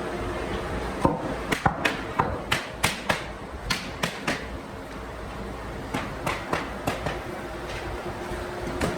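Hammer strikes on wood, a series of sharp knocks in uneven bursts of two or three, with a lull in the middle before they resume.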